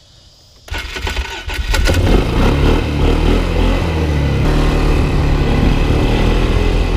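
Four-wheeler (ATV) engine starting up about a second in, then running loudly and steadily.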